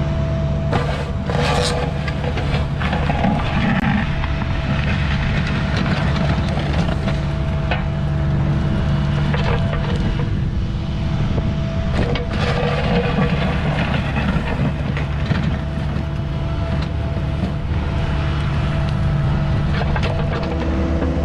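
Caterpillar mini excavator's diesel engine running steadily under work, with a constant hydraulic whine and scattered short knocks and scrapes.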